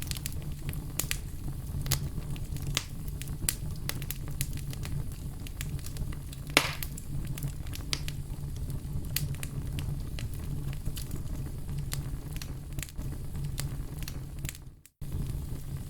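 Fire crackling and popping over a steady low rumble, with one louder pop about six and a half seconds in. The sound fades and drops out for a moment near the end, then comes straight back.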